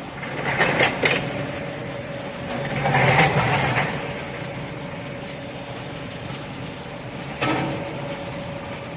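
Steady hum of commercial dishwashing machinery in a hotel kitchen dish room. Short clatters come about half a second and a second in, a longer louder noisy stretch about three seconds in, and a sharp knock near the end.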